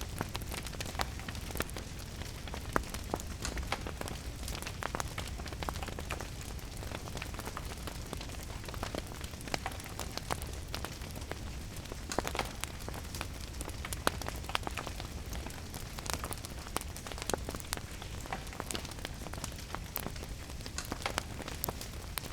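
Steady rain falling with a wood fire crackling: many irregular sharp pops and snaps over a steady hiss and a low rumble.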